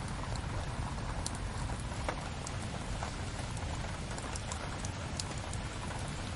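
Steady rain with a crackling wood fire: an even hiss of rain, with scattered sharp pops and snaps from the burning logs.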